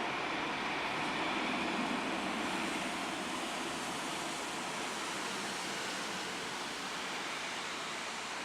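Jet engine noise of an Airbus A321 climbing away after takeoff: a steady rushing roar with no distinct tones, slowly fading as the aircraft recedes.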